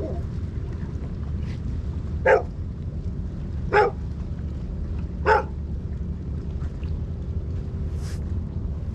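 A dog barking three times, about a second and a half apart, over a steady low rumble.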